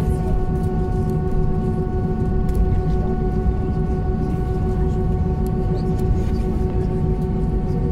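Steady drone of an Airbus A321's engines and air systems heard inside the passenger cabin: a low rumble with several steady whining tones laid over it, unchanging throughout.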